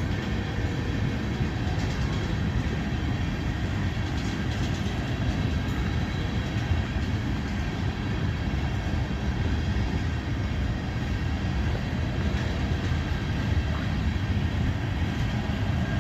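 Freight cars of a long train rolling past close by: a steady rumble of steel wheels on the rails.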